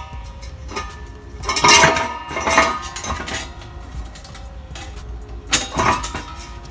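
Steel exhaust piping clanking and ringing as it is handled and hung on its rubber hangers, in two bursts of metallic knocks: one around two seconds in and another near the end.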